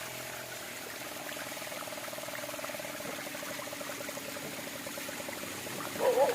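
Low-flowing water of a small waterfall running steadily over rock. A faint, fast-pulsing buzz runs through the middle, and a short, louder wavering sound comes near the end.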